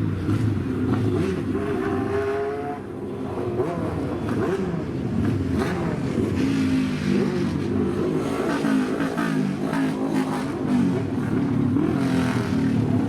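Old kaido-racer car engine revving, its pitch rising and falling again and again.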